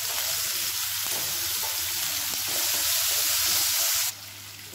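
Shallots sizzling in hot oil in a frying pan, a steady frying hiss that drops sharply to a fainter hiss about four seconds in.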